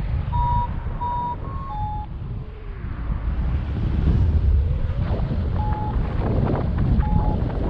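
Paragliding variometer beeping in short tones of slightly varying pitch, about four quick beeps in the first two seconds and two more later on; such beeps signal that the glider is climbing in lift. Wind buffets the helmet microphone with a loud low rumble throughout.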